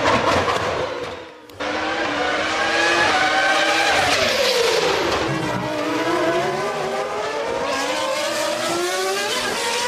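Formula One car engines running at high revs. The pitch drops steeply about four to five seconds in and then climbs again as the engines rev up. There is a brief fade and an abrupt cut about a second and a half in.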